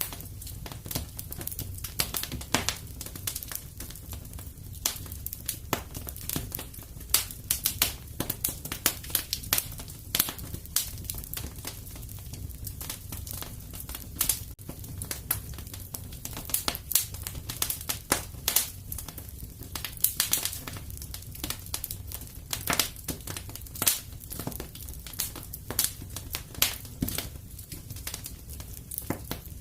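Wood fire in a fireplace crackling: dense, irregular pops and snaps, some much louder than others, over a low steady rumble of the flames.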